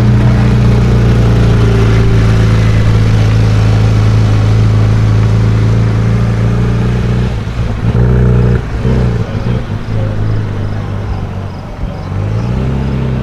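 Performance car engine idling with a loud, steady drone, broken by a few uneven throttle blips and dips about two-thirds of the way through, then settling back into a slightly higher idle near the end.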